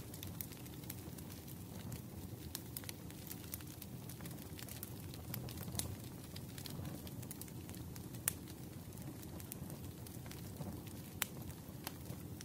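Wood fire crackling in a fireplace: scattered sharp pops and snaps over a steady low rumble of burning, with the loudest pops about 8 and 11 seconds in.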